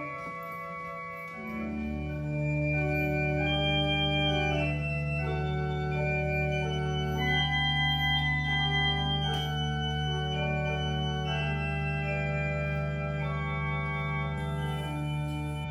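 Church organ playing slow sustained chords, with a deep held bass coming in about a second and a half in.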